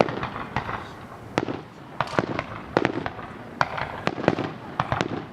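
Fireworks going off in rapid succession: repeated sharp bangs and crackles, several a second in clusters.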